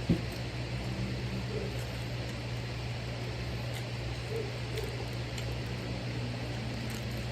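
A steady low machine hum over background noise, with a single sharp click just after the start.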